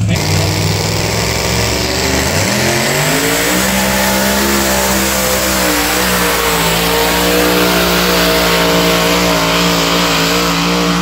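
Alcohol-fuelled two-wheel-drive pulling truck's engine under full load on a pull: it revs up sharply about two seconds in, then holds at high revs with a slightly wavering pitch.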